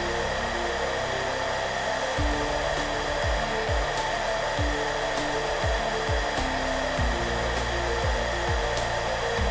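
Hair dryer blowing steadily, a constant rushing noise, with soft background music over it. From about two seconds in, a low drum beat joins the music.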